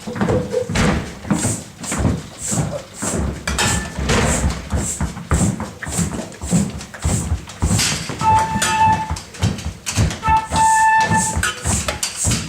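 A group improvising percussive sounds: irregular stamping and tapping with a run of hissy puffs. From about eight seconds in, a high held note sounds three times over them.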